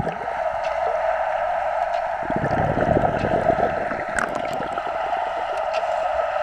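Steady rushing and gurgling of wave-pool water heard by a GoPro Hero 3+, most likely with the camera dipped under the surface. A deeper churning joins in from about two seconds in.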